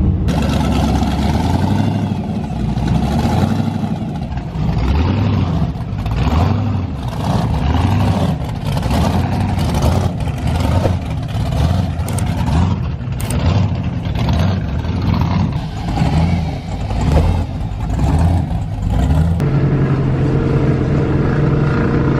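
Car engines running and revving, with the pitch and loudness rising and falling again and again.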